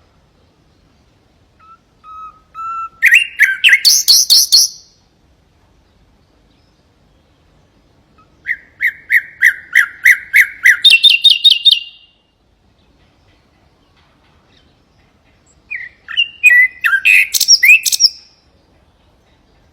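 Common nightingale singing three separate phrases with pauses between them. Each phrase is a fast run of repeated notes that jumps to a higher-pitched run before stopping.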